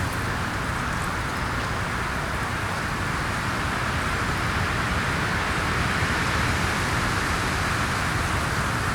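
Steady wind blowing outdoors: an even rushing hiss with a low rumble underneath, unchanging throughout.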